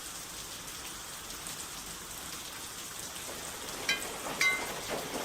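Steady rain falling. About four seconds in come two sharp, pitched plinks about half a second apart.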